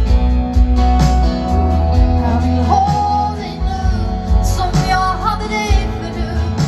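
Live pop band playing a song, with a woman singing over guitar, bass and drums.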